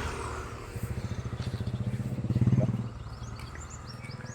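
Motorcycle engine running with an even, fast pulsing beat, swelling about two and a half seconds in and then dropping away. Small birds chirp faintly near the end.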